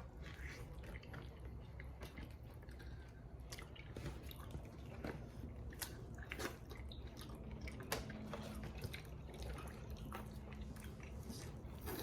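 Eating Cajun boiled crawfish: faint, close chewing and biting with many scattered wet clicks and smacks.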